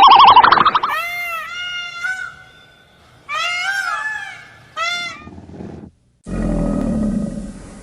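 A string of animal calls. A loud pulsed buzzing call stops about a second in. Three high calls follow, each rising and falling in pitch like a cat's meow, and near the end a sheep starts bleating.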